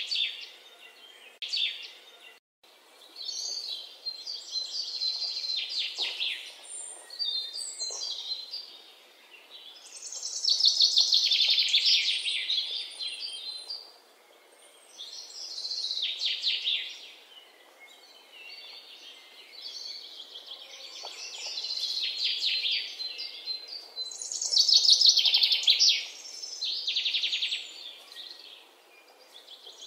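Birds singing: phrases of rapid, high chirping trills, each one to three seconds long, repeating with short gaps between them.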